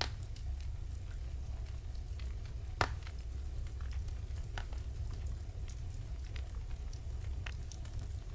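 Wood fire burning in a fireplace, crackling: a steady low rumble under scattered sharp pops, the loudest about three seconds in.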